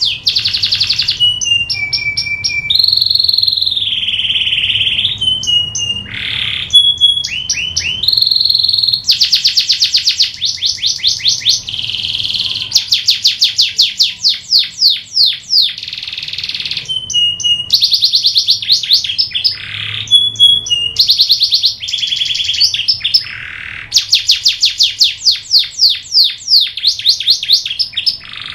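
Domestic canary singing a long unbroken song: fast trills of rapidly repeated notes, switching to a new phrase every second or two, with a few short held whistles in between.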